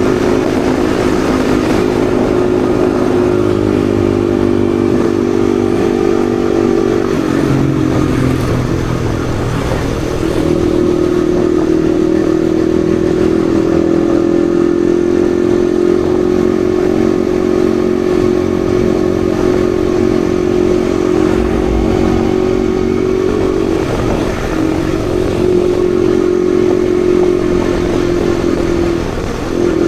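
Yamaha XSR155's single-cylinder engine running steadily under way at a constant note. The note drops away about seven seconds in and picks up again about three seconds later, then dips briefly twice near the end.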